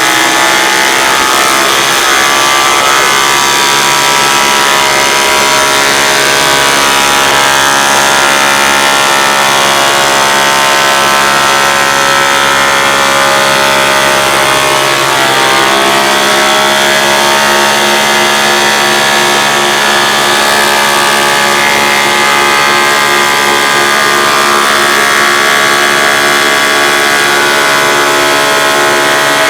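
Hoover Dimension Supreme vacuum cleaner running steadily, a loud motor whine with many steady tones. Its tone changes slightly about halfway through.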